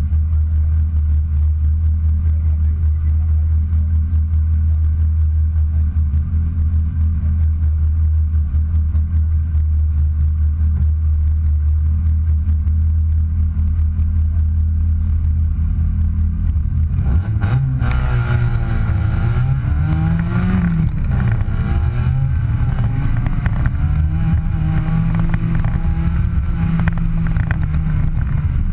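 Abarth 500 rally car's turbocharged 1.4-litre four-cylinder engine idling steadily, heard close up from the bonnet. About seventeen seconds in it revs and the car pulls away, the engine pitch rising, dipping once at a gear change, then rising again and holding high.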